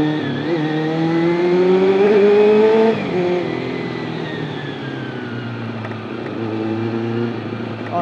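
Honda CBR400RR's inline-four engine pulling under acceleration, its revs rising for about three seconds. Then the throttle closes and the revs fall away before settling to a steady cruise.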